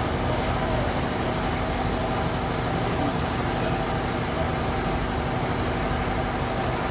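Bandsaw sawmill running with a steady, even machine noise and a constant low hum.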